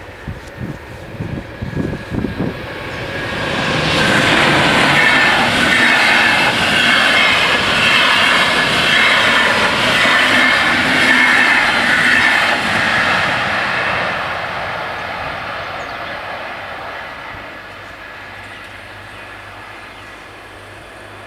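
Intercity train passing over a level crossing: its wheel and running noise builds about four seconds in, stays loud for about ten seconds with a high ringing from the wheels on the rails, then slowly fades away. Wind buffets the microphone in the first few seconds.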